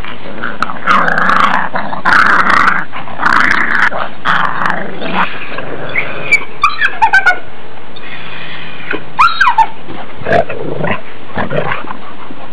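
Puppies play-fighting: snarling growls in the first few seconds, then short high yips and squeals in the middle and again about nine seconds in, with more growling near the end, over a steady hiss.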